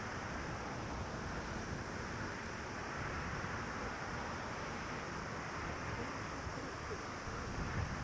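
Jet airliner taking off at a distance: a steady engine roar and rumble, mixed with wind on the microphone.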